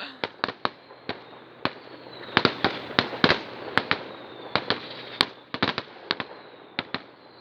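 Fireworks going off: a rapid, irregular series of sharp bangs and cracks, thickening into a dense cluster about two and a half seconds in.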